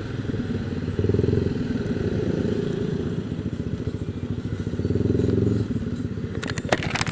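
Yamaha Aerox 155 VVA scooter's single-cylinder engine running through an aftermarket exhaust while riding, getting louder in two surges as the throttle opens and eases. A few sharp clicks near the end.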